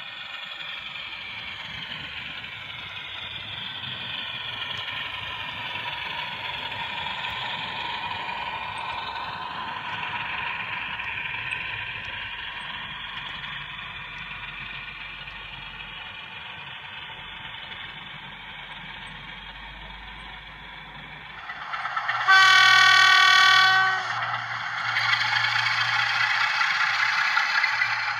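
OO gauge model diesel locomotive's sound decoder playing diesel engine sound through its small speaker, the engine note shifting slowly. About 22 s in, a loud horn blast of about two seconds, then the engine sound runs louder.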